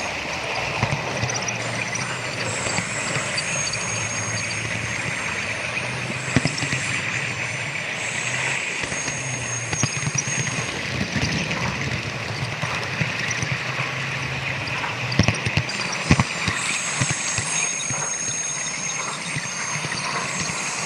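Model train running along the track: irregular clicking of small wheels over rail joints, over a steady hum and hiss, with a few sharper clicks about 15 to 16 seconds in.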